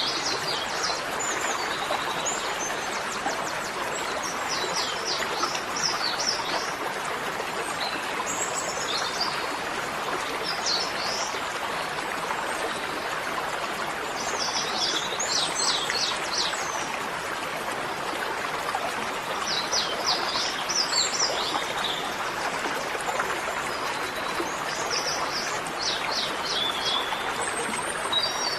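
Steady rush of flowing water, like a stream, with a small bird singing short high chirping phrases every few seconds.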